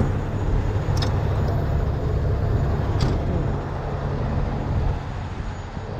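Heavy truck's diesel engine running steadily with a low drone, and two short, sharp clicks about two seconds apart.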